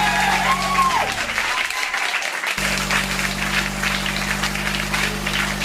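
Clapping applause, a dense steady crackle, over a steady low hum that cuts out about a second in and comes back nearly three seconds in.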